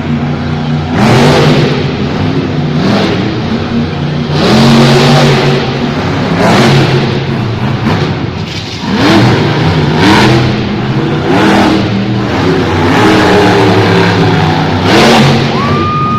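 Monster truck engine revving hard in repeated bursts, its pitch rising and falling with each blip of the throttle.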